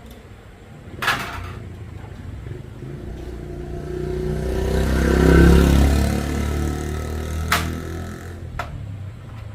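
A motor vehicle engine that swells to a peak about five seconds in and then fades away, with a sharp click or clank about a second in and another near the end.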